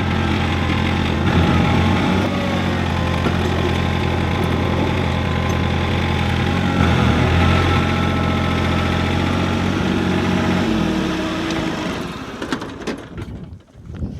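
John Deere compact tractor's three-cylinder diesel engine running steadily, then winding down and stopping about three-quarters of the way in. A few clicks and knocks follow near the end.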